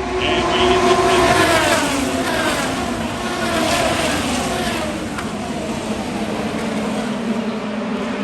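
A pack of IndyCars with 2.2-litre twin-turbo V6 engines passing at full throttle just after a restart. Their many engine notes fall in pitch as they go by, loudest about a second in, then settle into a steadier drone as the field moves away.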